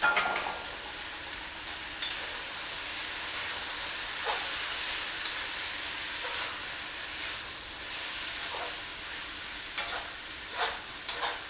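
Noodles frying in a hot wok, a steady sizzling hiss broken by a few sharp knocks of the stirring utensil against the pan.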